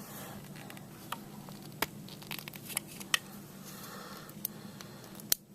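Parts of a snap-fit plastic model airliner being handled and pressed together: scattered sharp plastic clicks and taps with light scraping, a loud click near the end.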